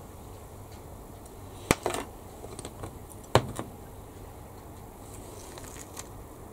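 A few sharp clicks and taps of small hobby tools and plastic model parts handled on a workbench, the two loudest about a second and a half apart, over a steady low background hum.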